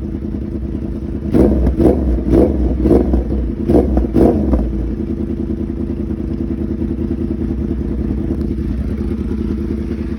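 2011 Yamaha R1's crossplane inline-four idling through a custom exhaust of a slip-on mid pipe and SC Project muffler. About a second in it is given six quick throttle blips over some three seconds, then settles back to a steady idle.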